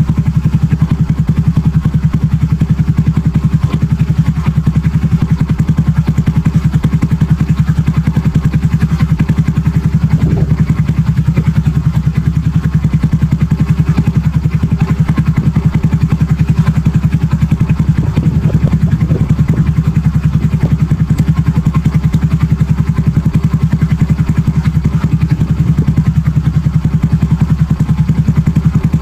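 Honda Super Cub with an aftermarket BEAMS muffler, its single-cylinder four-stroke engine idling at a steady speed, the exhaust pulsing evenly without revving.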